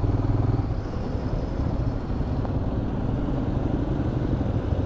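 Motorcycle engine running steadily while riding: a low, even drone made of rapid firing pulses, with road and wind noise over it.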